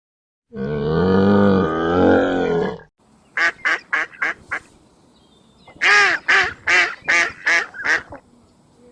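Two runs of short, clipped honking calls, five and then six, typical of a duck or goose. Before them comes a long, low animal call lasting a couple of seconds.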